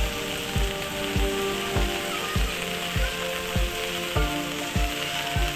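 Heavy rain hissing on a wet street, with background music laid over it: a steady low beat about every 0.6 s and held chords that change about four seconds in.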